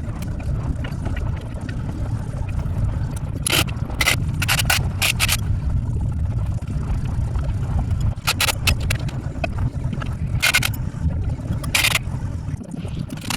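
Clusters of short, sharp metal scrapes and squeaks over a steady low rumble.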